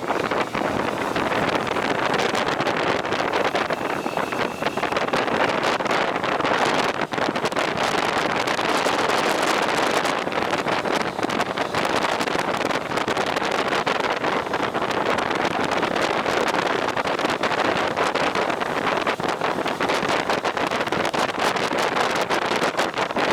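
Heavy wind noise on the microphone of a moving vehicle: a steady rushing sound with constant buffeting and no clear engine note.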